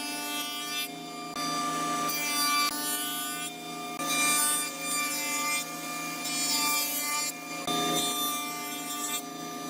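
Rough rasping strokes on wood, each about a second long and repeating every second or so, over a bed of steady tones.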